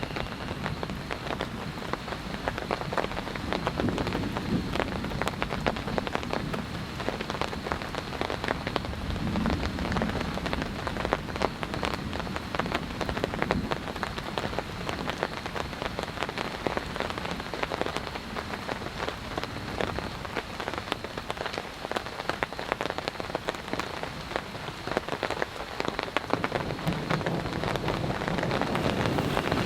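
Heavy rain falling steadily, with many separate drops hitting a surface close by.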